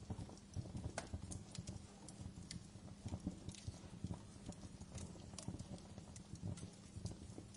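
Wood fire crackling in a fireplace: irregular sharp pops and snaps over a low rumble of the burning.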